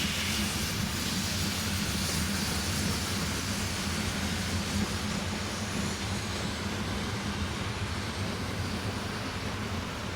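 Steam train running: a steady low rumble with hiss over it, the hiss thinning out over the second half.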